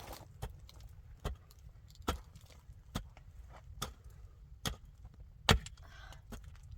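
Repeated strikes of a hand tool, as in chopping or hammering, in a steady rhythm of a sharp knock a little more often than once a second, one stroke about two-thirds of the way through louder than the rest.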